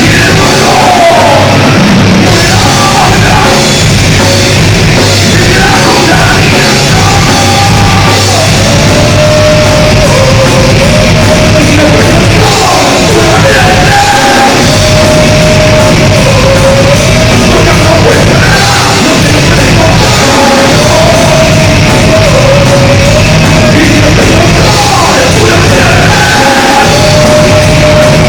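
Loud live heavy metal: distorted guitars and drums with a yelled vocal line over them.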